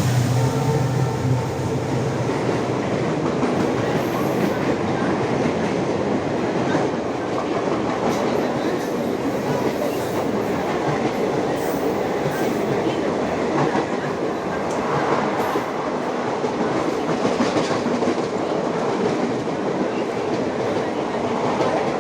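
Mumbai suburban local train running on the rails, a steady rumble with the wheels clattering over the rail joints.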